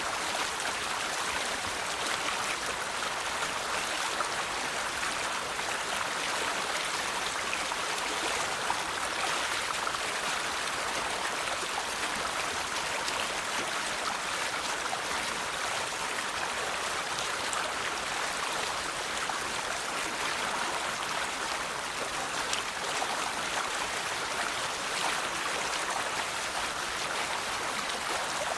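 River water flowing steadily over rocks, an even rushing with small splashes and trickles.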